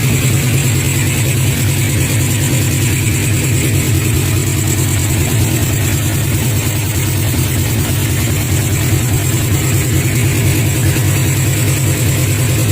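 Custom three-cylinder engine in a Suzuki Satria FU motorcycle, running steadily with an even, unchanging note.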